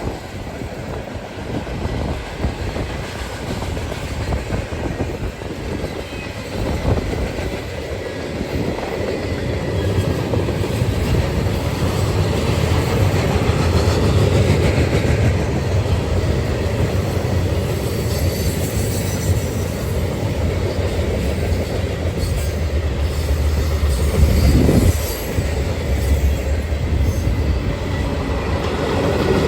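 Freight train rolling past close by, steel wheels clicking over rail joints in an uneven rhythm, with a heavy low rumble from wind buffeting the microphone. A brief louder surge comes near the end.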